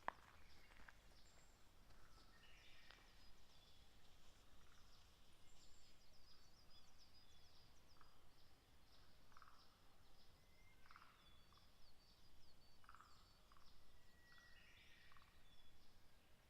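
Faint outdoor dusk ambience with many small, scattered bird chirps and a few short calls, and one sharp click right at the start.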